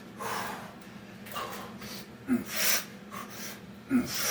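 Heavy, hard breathing from a man doing Navy SEAL burpees: a run of forceful breaths about once a second, with two short voiced grunts, the loudest sounds here, about two seconds in and near the end.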